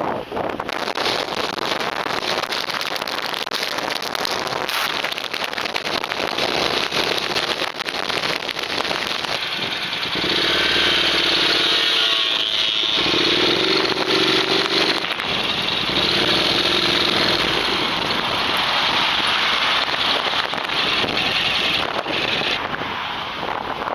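Wind buffeting an action camera's microphone in a steady rushing noise. An engine-like hum joins it and gets louder from about ten seconds in for several seconds.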